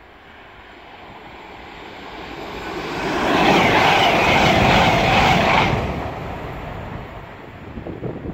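A passenger train passing at speed. The rushing noise builds over about three seconds, is loudest for about two and a half seconds as the coaches go by, then fades away.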